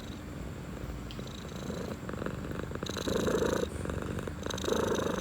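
Domestic cat purring, a steady rapid buzzing rattle that swells louder twice in the second half.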